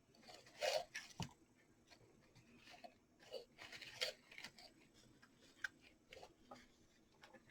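Faint handling sounds of small artificial flowers being arranged: scattered crinkly rustles and a few light clicks, the loudest about a second in and a cluster near the middle.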